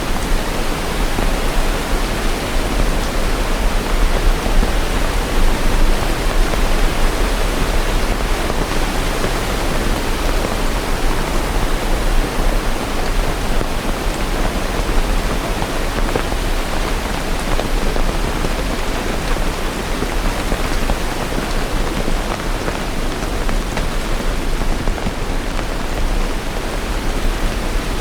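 Steady rain, an even dense hiss with a low rumble underneath and no single drops or thunderclaps standing out.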